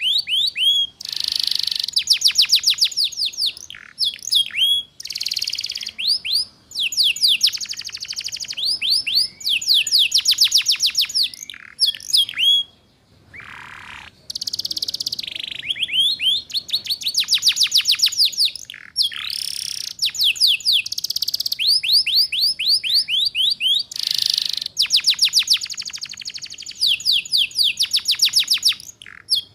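Domestic canary singing a fast trilling song (ngeriwik): rapid runs of downward-sweeping whistled notes, many per second, in phrases broken by short pauses.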